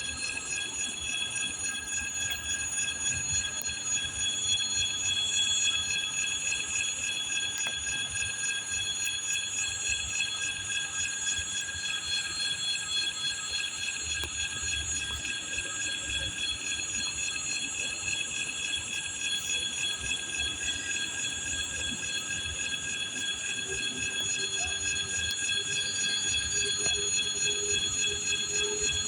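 Freight train hauled by a 2ES4K electric locomotive, with several steady high-pitched tones ringing together throughout over a faint low rumble.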